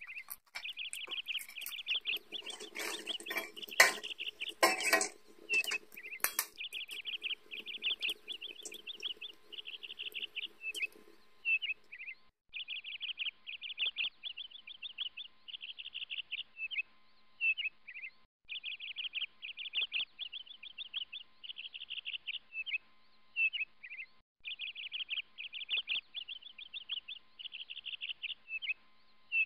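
A small bird singing over and over: rapid high trills broken by short chirps. In the first half, a spatula clinks and scrapes against the frying pan over the sizzle of deep-frying snack sticks, stopping about eleven seconds in.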